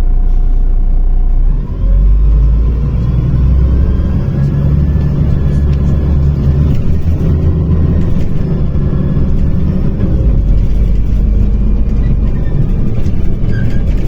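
MAZ-105 city bus heard from inside the cabin: the engine pulls away and accelerates about two seconds in, rising in pitch, then runs on with a heavy low rumble. A steady tone at the start stops just before it pulls away.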